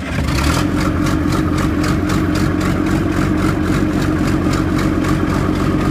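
Fiat-Allis 10C crawler dozer's diesel engine idling steadily just after a cold start, with an even, rapid beat.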